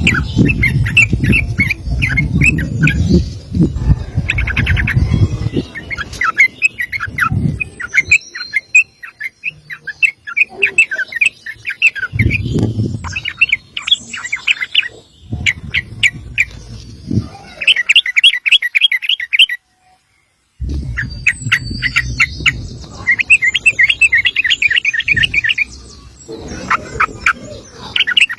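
Yellow-vented bulbul (trucukan) singing long, rapid chattering runs of short notes, with a loud low rumble under much of it. The sound breaks off completely for about a second two-thirds of the way through.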